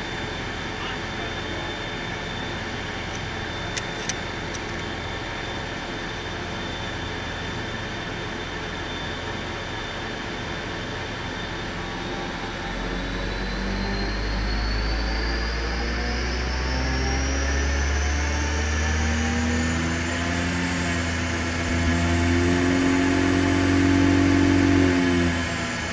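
A car running on a rolling-road dyno: steady at first, then from about halfway the engine note deepens and a whine climbs steadily in pitch as it speeds up on the rollers, getting louder until it eases off suddenly near the end. Two brief clicks sound a few seconds in.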